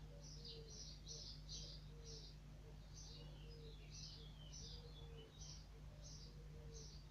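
Faint chirping of small birds: quick high notes, several a second, over a steady low hum.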